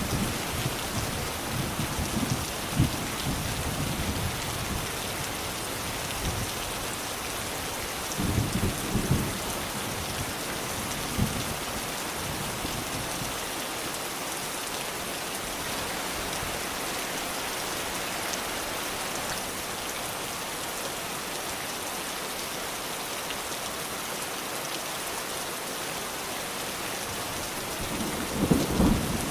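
Steady rain falling, an even hiss. Low rumbles of thunder swell through the first few seconds, again about a third of the way in, and near the end.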